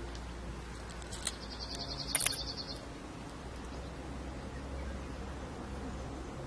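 A bird gives a short, rapid high trill about a second in, lasting about a second and a half, over a steady low rumble of wind.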